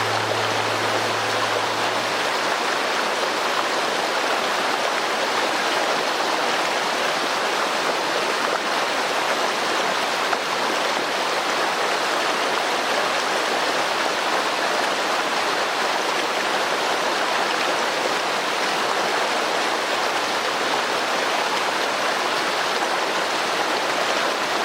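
Fast-flowing mountain stream: a steady, even rush of water over rocks.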